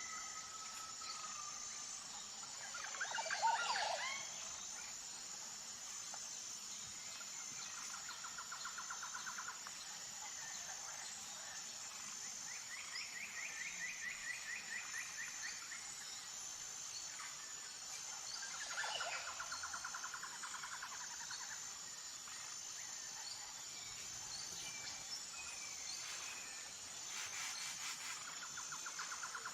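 Jungle ambience: insects keep up a steady high pulsing drone throughout. Over it, birds give rapid trills every few seconds, and twice a call sweeps down in pitch.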